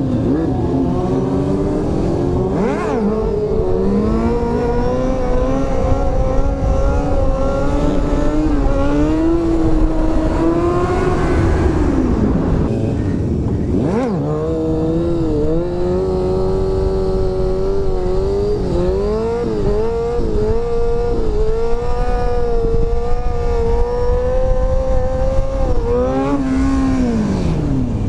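Motorcycle engine running at highway speed over steady wind noise. Its pitch climbs and holds, then falls steeply twice, about twelve seconds in and near the end, as the throttle is rolled off.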